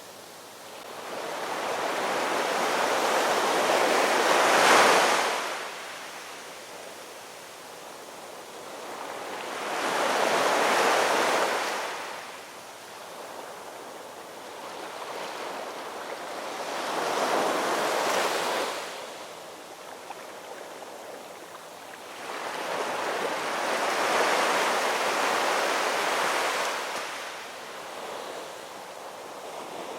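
Ocean waves rolling in on a shore, the surf swelling and falling away four times, a wave every six or seven seconds.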